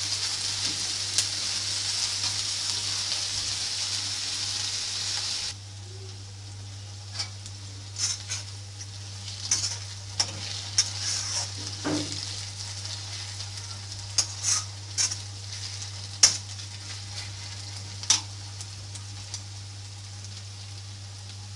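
Sliced onions frying in oil in a metal wok, stirred with a metal spatula. A steady sizzle drops away suddenly about five seconds in, leaving scattered pops and the spatula's scrapes and taps against the pan.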